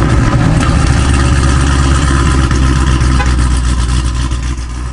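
V8 car engine idling just after start-up, a steady deep idle that eases off slightly near the end.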